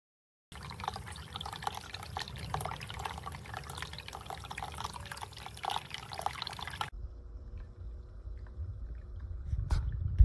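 Tabletop indoor fountain running: water trickling and dripping steadily, with many small splashes. About seven seconds in it changes abruptly to a duller, lower water sound with a faint steady hum.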